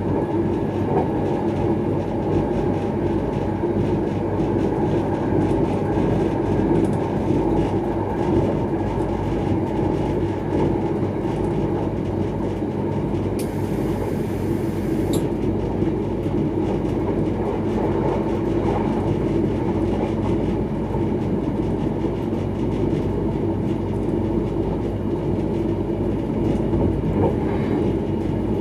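Electric passenger train running at speed, heard from inside its rear cab: a steady rumble of wheels on rail with faint rhythmic clicks. A brief high hiss lasts under two seconds about halfway through.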